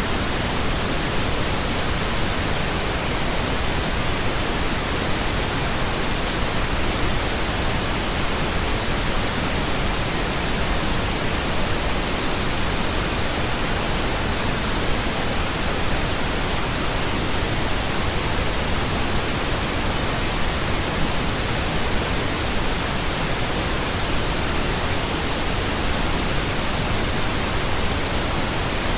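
Steady synthetic pink noise: an even, unchanging hiss with no pitch or rhythm.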